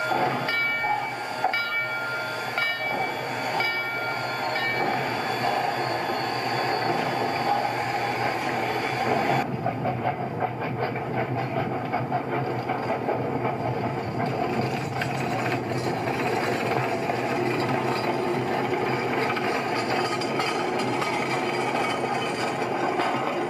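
Railroad train in motion, a steady rumble. During the first few seconds a short ringing tone repeats about once a second. The high hiss drops away abruptly about ten seconds in.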